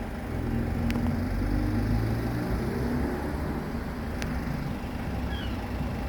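Low, steady rumble of a vehicle engine, with two sharp clicks, one about a second in and one past four seconds.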